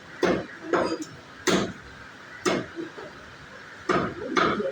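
Knife chopping through chicken on a cutting board: about six sharp chops at uneven intervals.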